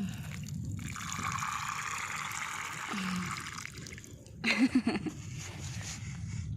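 Water hissing or trickling for about three seconds, over a low steady rumble. About four and a half seconds in comes a brief, loud, voice-like sound.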